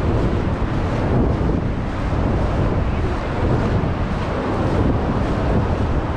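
Wind buffeting the microphone over the steady rush of ocean surf, loud and unbroken.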